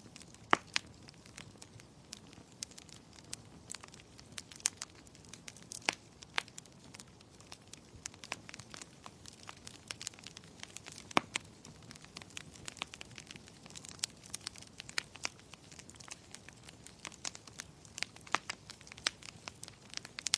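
Burning firewood crackling: irregular sharp pops and snaps of varying loudness over a faint low hiss of the fire.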